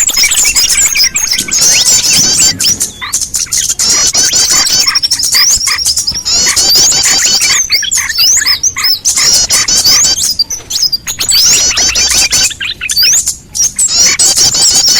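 Dense, loud chorus of small birds chirping and trilling rapidly in high, fast-repeating notes, briefly thinning a few times. It is a bird-lure recording (pikat burcil) meant to draw small wild birds in.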